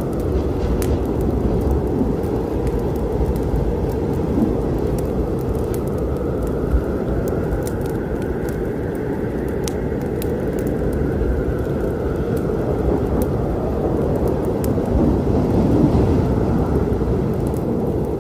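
Storm thunder and rain making a steady deep rumble, with scattered sharp crackles and pops from a wood fire over it. The rumble swells a little near the end.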